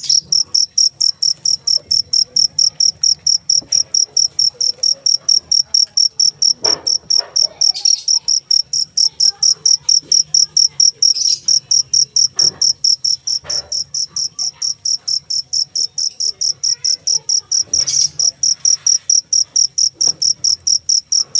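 Cricket chirping loudly and steadily, a high, even run of about three to four chirps a second, with a few faint knocks in the background.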